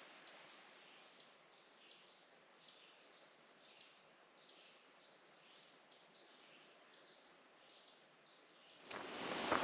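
A small songbird singing a long, steady run of quick, high, down-slurred notes, about three a second. Near the end a much louder rustling starts close by.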